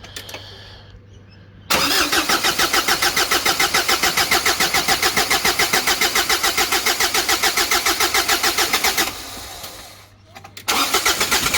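Turbo-diesel Ford Courier engine being cranked over by its starter in rapid, even pulses for about seven seconds, stopping abruptly, then cranking again near the end: first-start attempts on a freshly rebuilt engine whose fuel system is still being primed and bled.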